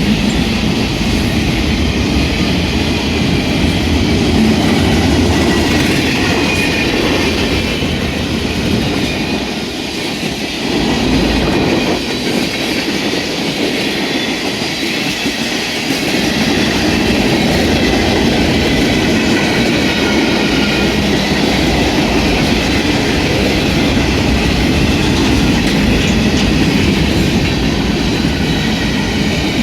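Freight cars of a manifest train rolling steadily past, the wheels running over the rails with a continuous rumble and faint high wheel squeal.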